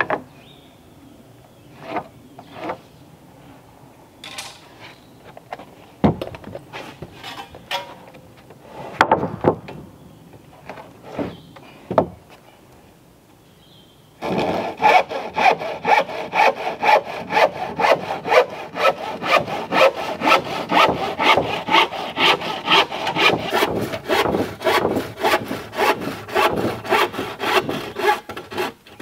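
Scattered knocks and clicks of wood and tools being handled. About halfway through, a hand saw starts cutting through wood in quick, steady, even strokes.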